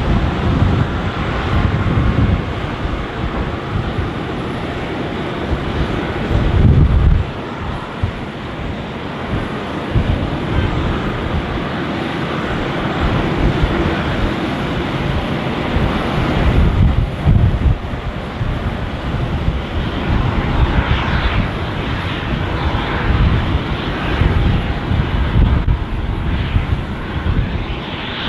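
The jet engines of an Airbus A330-300 airliner running: a steady, loud rushing noise with a low rumble that rises and falls unevenly throughout.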